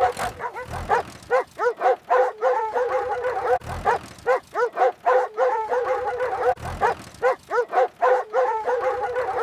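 Puppies yipping and whining over and over, several short high-pitched yelps a second broken by a few longer drawn-out whines.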